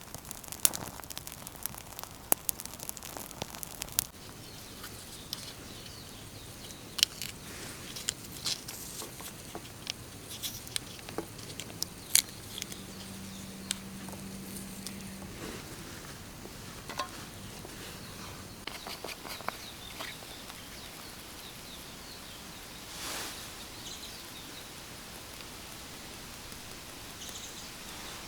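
Wood campfire crackling with irregular sharp pops and clicks over a steady outdoor hiss, with a brief low hum about halfway through.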